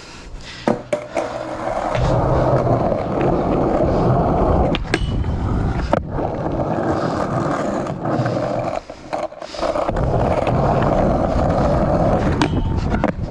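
Skateboard rolling, its wheels making a steady loud rumble, with a few sharp clacks from the board. The roll drops away briefly about three-quarters of the way through, then picks up again.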